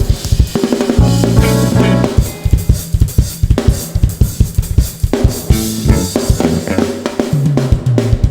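Live band playing an instrumental soul groove, the drum kit to the fore with busy kick, snare and rimshot hits over sustained low bass notes and some chords.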